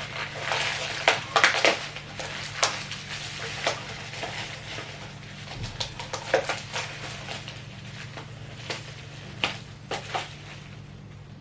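Crinkling, rustling and sharp clicks of plastic takeaway food containers and packaging being handled and opened, busiest in the first few seconds and sparser toward the end.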